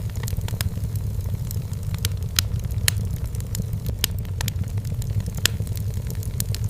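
Wood fire burning in a fireplace: a steady low rumble of the flames with sharp, irregular crackles and pops, a few louder snaps scattered through.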